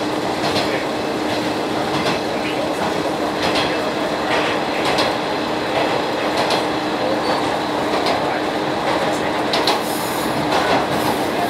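Interior running noise of a diesel local railcar: a steady rumble of wheels on rail with a faint steady hum, and wheel clicks over rail joints about once a second.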